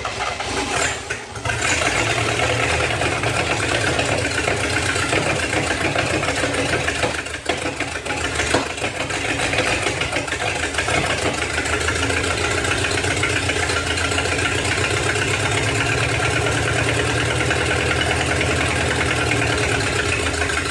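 A 1956 Chevrolet 265 small-block V8 running on fuel hand-fed from a bottle. It is uneven for the first couple of seconds, then settles into a steady run right after its ignition timing has been adjusted.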